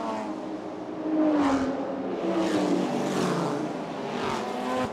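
Several GT race cars passing one after another at warm-up pace, engines running with pitch rising and falling as each goes by.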